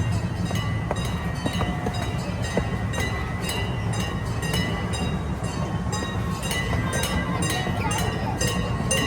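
Miniature railroad train running along its track: a steady low rumble with a run of regular wheel clicks, which come closer together in the last few seconds.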